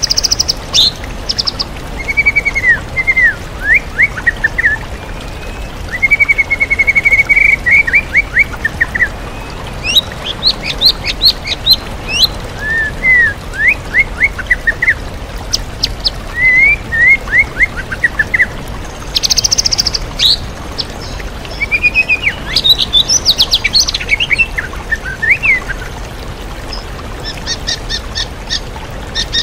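White-rumped shama singing in a run of varied phrases: short sweeping whistles and fast chattering chirps, with brief pauses between phrases. Underneath is the steady rush of a waterfall.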